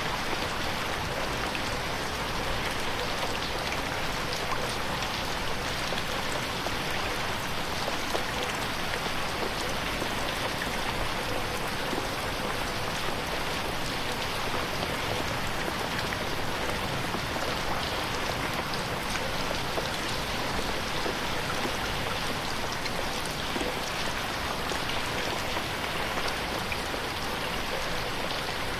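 Steady rain pattering on a window pane, a dense even hiss of many small drop ticks.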